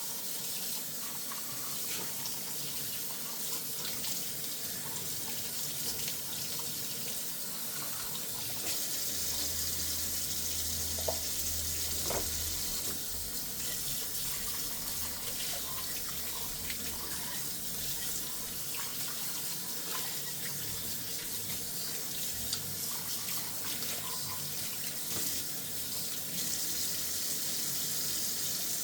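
Kitchen tap running water into a sink while dishes are washed by hand, with a few light clinks of dishware now and then.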